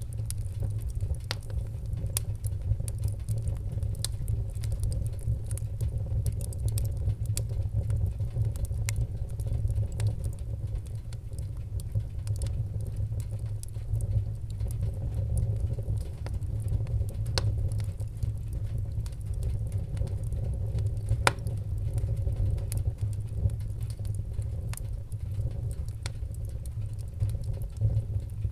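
Wood fire burning in a fireplace: a steady low rumble with frequent, irregular sharp crackles and pops, and one louder pop about three-quarters of the way through.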